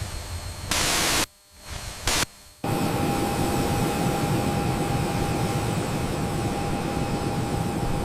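Bursts of loud static that cut in and out abruptly, then a steady hum with one constant whine underneath.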